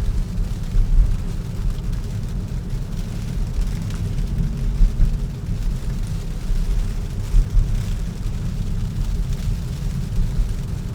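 Steady low rumble of tyre and road noise inside a Tesla's cabin on a snow-covered road.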